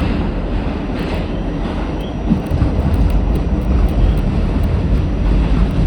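A passenger train running on the rails: a steady heavy rumble, with a brief knock about two seconds in, after which the rumble grows stronger.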